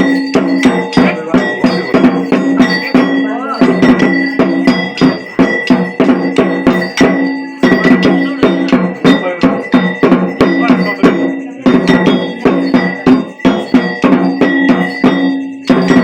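Worship bells ringing with fast, even percussion strikes, as in a Hindu puja or aarti. Under them a low held tone sounds, breaking off every few seconds.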